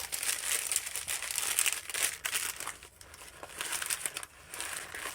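Plastic bags and packaging crinkling and rustling as a roll of medical tape is pushed down among bagged supplies in a packed first aid kit.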